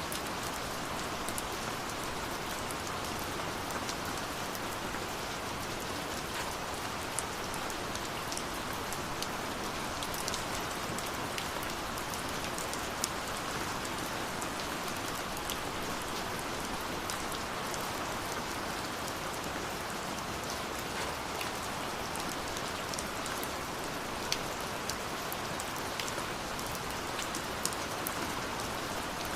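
Steady rush of falling water from a waterfall, with the scattered crackles and pops of a wood fire laid over it.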